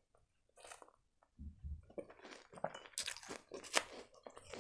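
Close-miked chewing of a crunchy biscuit: soft, scattered crunches and wet mouth clicks.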